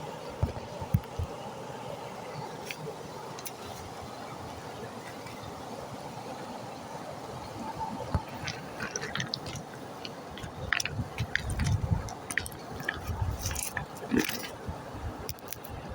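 Stream water running steadily, with scattered sharp clicks and a few low knocks that come thicker in the second half.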